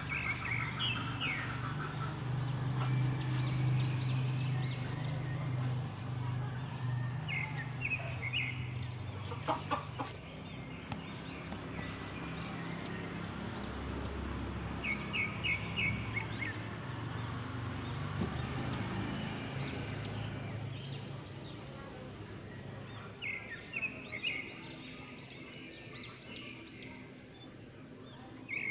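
Birds chirping: several short runs of quick high chirps spread through, over a low steady hum, with two sharp clicks about ten seconds in.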